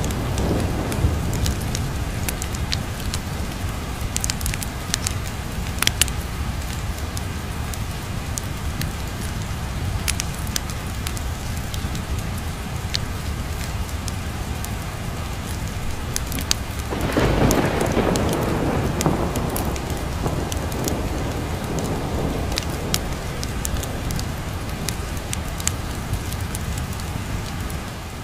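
Steady heavy rain under a low, continuous thunder rumble, with a louder roll of thunder swelling about two-thirds of the way through. Sharp crackles from a wood fire are scattered throughout.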